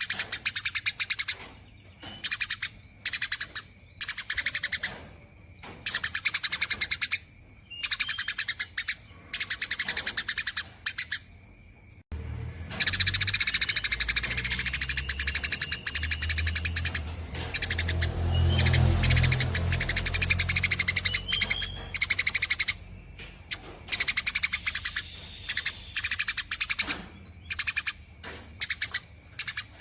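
Eurasian tree sparrow giving long, rapid chattering trills, in bouts of a second or two with short pauses between them. From about twelve seconds in, the chatter runs on unbroken for several seconds over a low rumble.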